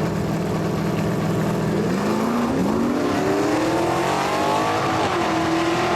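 355 cubic-inch small-block Chevrolet V8 drag car engine, held at steady revs for about two seconds, then climbing in pitch as the car accelerates. The pitch dips briefly about five seconds in and then holds.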